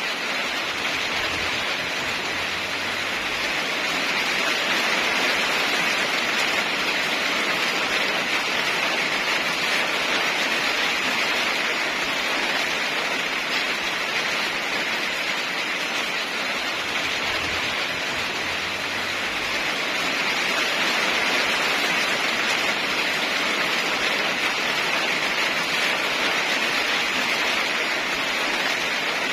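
Steady heavy rain: a dense, even hiss with slow, gentle swells in loudness.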